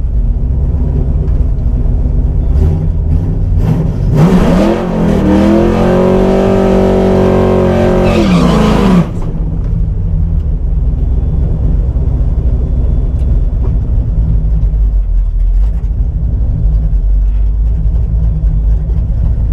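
A 1989 Mustang GT's 5.0 V8 heard from inside the cabin, running at a steady low drone on the road. About four seconds in, the throttle opens and the engine note climbs, holds, then sags. About halfway through, the loudness drops suddenly as the throttle closes, and the low drone carries on.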